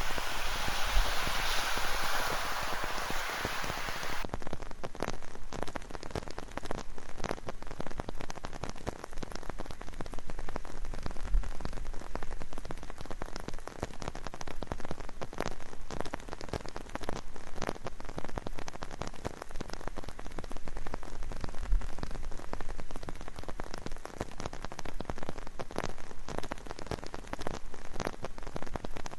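Steady rain, with many separate drops ticking close by. About four seconds in the sound changes abruptly, from a fuller, denser hiss to a thinner hiss with the drop ticks standing out.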